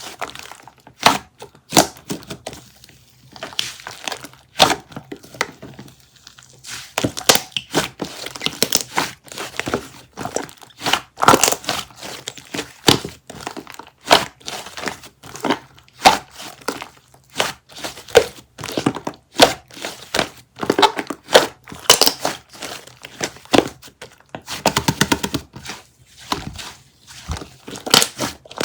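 Close-up crinkling and crumpling handling noise, dense with short crackles, clicks and light taps, with a few longer crinkly stretches.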